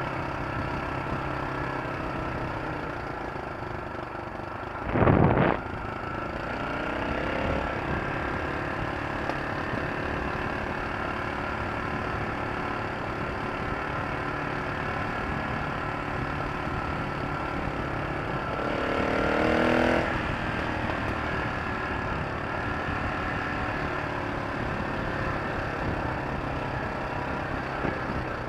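Engine running steadily, with a loud, short burst about five seconds in and a brief rise in pitch around nineteen seconds in.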